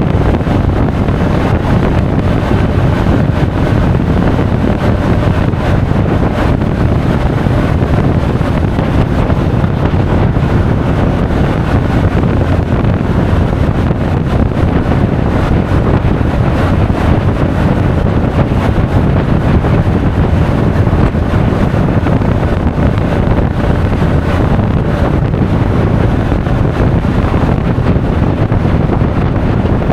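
Steady wind noise buffeting an action camera's microphone while riding a Honda Forza 350 scooter at speed, with the scooter's engine and road noise underneath.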